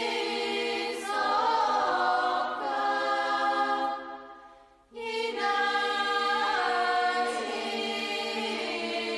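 Background music: a choir singing long held chords. The singing fades away about four seconds in and comes back about a second later.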